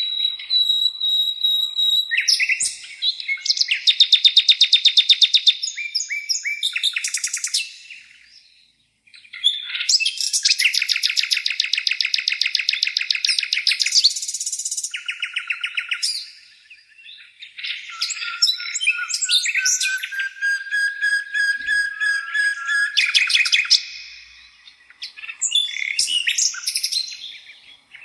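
Songbirds singing in phrases of a few seconds, with short pauses between: fast trills, rapid repeated chirps and whistles, one of them slowly rising in pitch.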